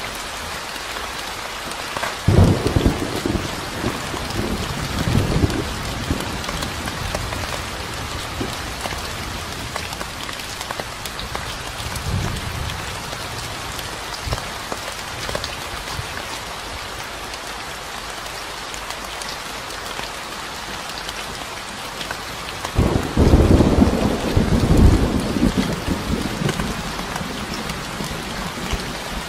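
Steady rain falling, with low rolls of thunder rumbling about two seconds in and again, louder, near the end.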